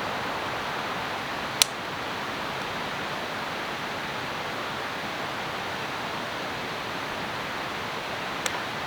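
A river rushing steadily. Two sharp clicks stand out over it, one about a second and a half in and one near the end.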